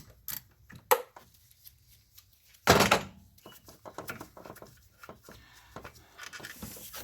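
Socket wrench and an alternator mounting bolt being handled in the engine bay as the bolt comes out: a few light metallic clicks, and one louder clunk about three seconds in.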